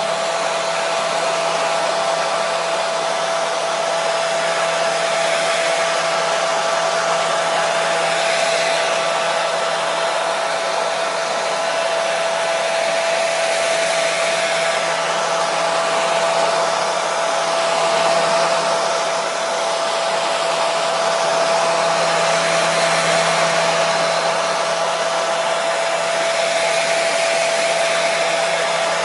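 Hair dryer running continuously: a steady rush of blown air with a constant motor whine, played as white noise for a colicky baby.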